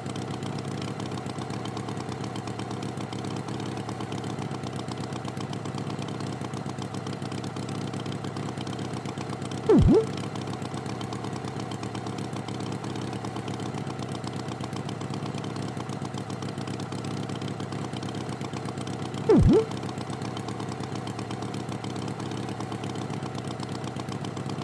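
A tractor engine running steadily at idle. Twice, about ten seconds apart, a short loud thump with a quick drop in pitch cuts in.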